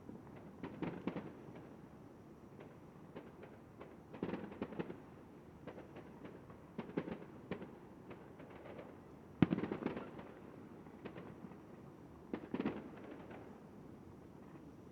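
Distant fireworks display: clusters of bangs and crackles every few seconds, dull and low. The loudest is a single sharp bang about nine and a half seconds in.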